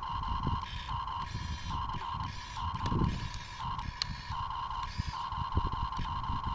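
Small electric gear motors of a radio-controlled toy construction machine whining in short on-off spurts at a steady pitch as the controls are worked, with low thumps and rumble underneath.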